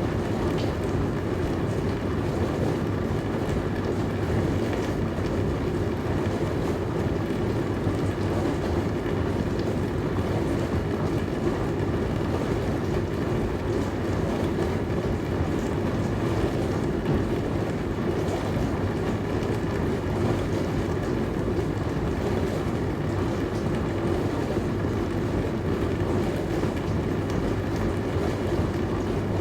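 Dishwasher running: a steady, even hum with wash noise, unbroken and unchanging in level.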